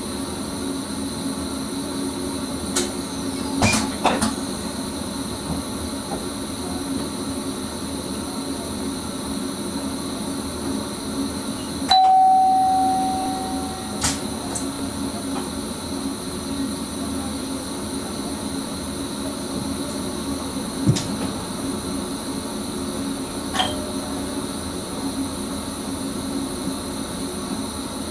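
Steady running noise inside the driver's cab of a Sprinter electric train, with a constant hum. About twelve seconds in, a single bell-like chime rings and fades over a second and a half, and a few short clicks come and go.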